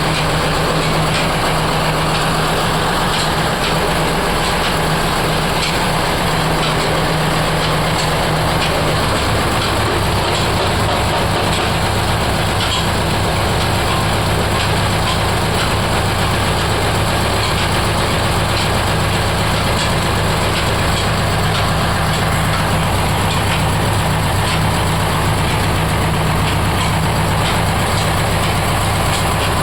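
Oil expeller machine running steadily with a continuous mechanical drone and low hum, faint regular clicks over it. The low hum shifts in pitch about nine seconds in.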